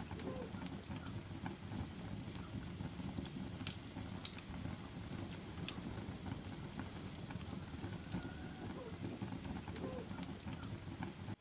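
Wood fire burning, crackling steadily with irregular sharp pops, the loudest pop a little over halfway through.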